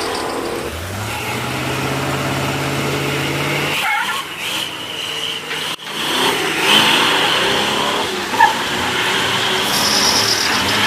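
Muscle car engine running, its pitch rising about a second in and then held steady, followed after a couple of abrupt breaks by more engine noise.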